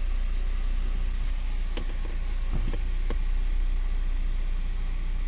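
Ford 2.0 EcoBoost four-cylinder engine idling steadily during an EVAP system test, with a few light clicks about two and three seconds in.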